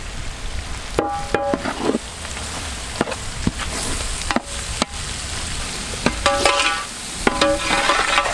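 Onion and tomato masala frying with a steady sizzle in a large metal pot as it is stirred. Sharp knocks and scrapes of the stirring against the pot come through, with short ringing metallic squeals about a second in and again near the end.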